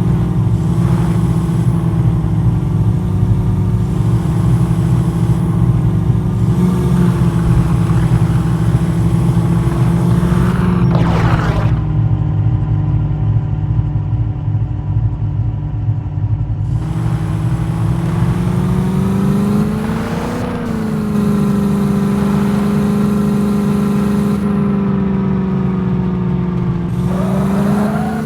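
Jeep engine running while driving, a steady low drone. The engine note eases off briefly about eleven seconds in, then climbs around twenty seconds in and again near the end as the engine revs up.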